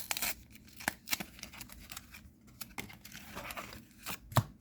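Trading card booster pack being handled: the foil wrapper crinkling and tearing open, with irregular rustles and clicks. A sharp knock sounds once near the end.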